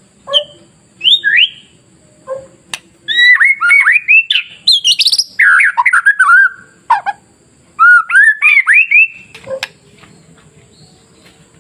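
White-rumped shama (murai batu) singing: a few short calls, then a fast run of rising and falling whistled notes in the middle, and another shorter phrase a couple of seconds later. The song stops about two seconds before the end.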